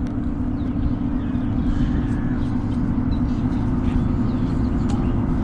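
A steady low mechanical hum with a rumble beneath it, holding the same pitch and level throughout.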